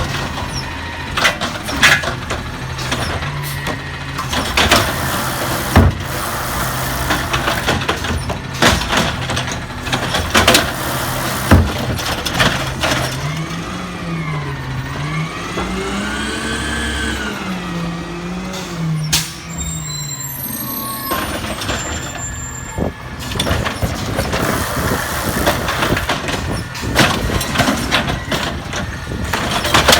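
Peterbilt 320 garbage truck running, with repeated clanks and bangs from the collection work. In the middle its engine speed rises and falls several times, followed shortly by a brief hiss.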